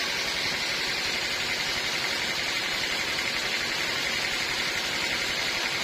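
Sawmill machinery running with a steady, unbroken mechanical noise.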